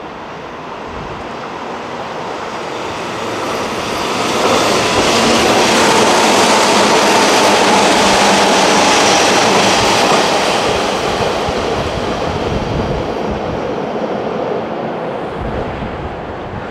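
Hanshin 8000 series electric express train passing through the station without stopping. The rail and wheel noise builds up, stays loud for about six seconds in the middle, then fades away.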